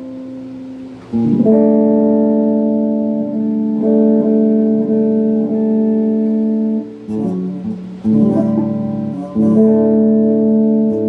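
Donner semi-hollow electric guitar, played through a phaser and a Klon-clone overdrive into a Peavey Backstage Plus amp, strumming chords and letting them ring. A new chord is struck about a second in, a few quicker notes come around seven seconds, and fresh chords follow near eight and nine and a half seconds.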